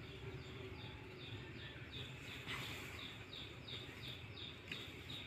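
Faint background noise with a small bird repeating short high chirps, about three a second.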